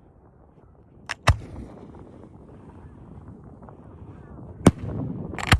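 Fireworks going off in a show: four sharp bangs, two close together about a second in and two more near the end.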